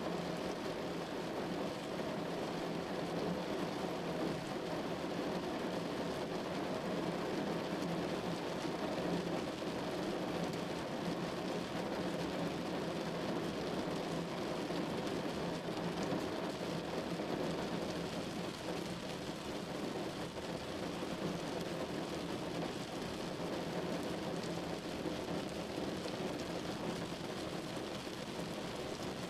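Steady rain falling on a window, an even, unbroken wash of drops with fine ticking on top.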